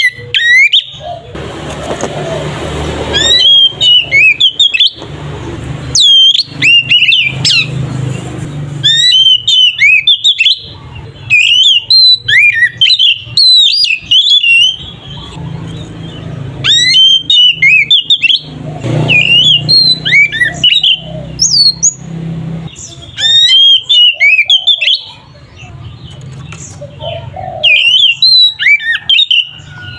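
Oriental magpie-robin (kacer) singing loudly in bursts of rapid, varied whistles and chirps. Each phrase lasts a second or two and is followed by a short pause. A low rumbling background noise comes and goes beneath the song.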